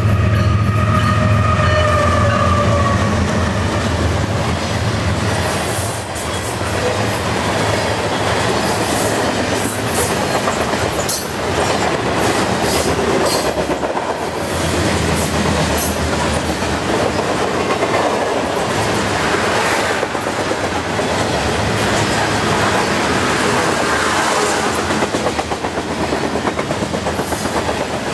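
A CN freight train's GE diesel locomotives pass at about 45 mph, their engines droning low and a whine falling in pitch as they go by. A long string of covered grain hopper cars follows, rolling past with a steady rumble and rhythmic clickety-clack of wheels on the rails.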